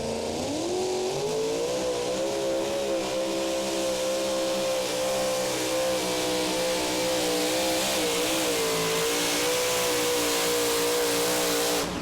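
Super modified two-wheel-drive pulling truck's engine at full throttle through a pull. The pitch rises in the first second, holds high with a brief dip about eight seconds in, then cuts off abruptly near the end as the truck is shut down.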